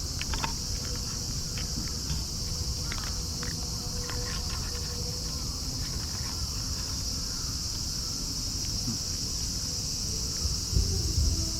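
Steady high-pitched drone of an insect chorus, unbroken throughout, with a few faint short chirps and clicks and a low rumble near the end.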